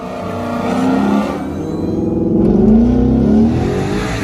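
A car engine revving loudly, its pitch rising and falling.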